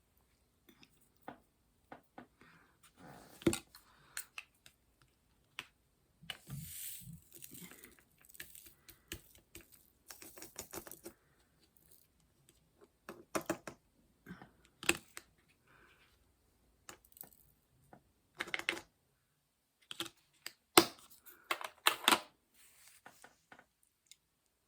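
Hands handling a diamond painting canvas and its double-sided adhesive: irregular clicks, taps and rustles of plastic film and paper, with a longer rustle a few seconds in and busier clusters of taps later on.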